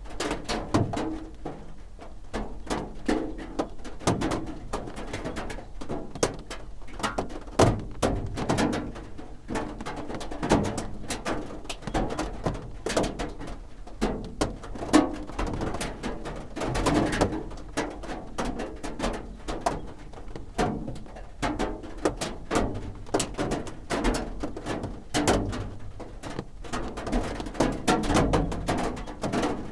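Rain drumming on a roof: a dense, irregular patter of drops striking, some louder single hits standing out, with no let-up.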